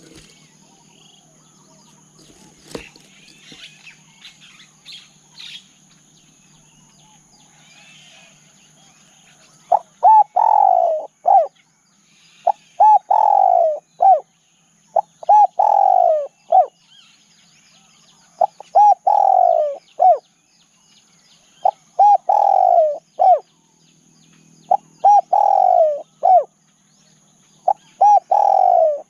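Spotted dove cooing: from about ten seconds in, seven phrases of a few coos each, one roughly every three seconds, each ending in a falling note. Before the doves begin there is faint chirping of small birds, and a faint steady high-pitched tone runs throughout.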